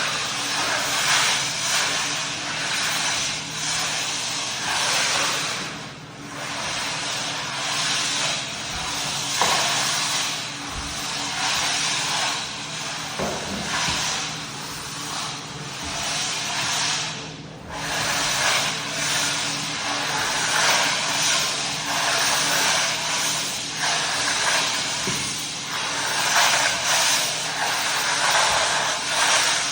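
Hard wax oil being worked into sanded oak flooring: a hissing, swishing scrub of pad on wood that swells and fades with each pass, over a steady low machine hum. It drops off briefly twice, about six and seventeen seconds in.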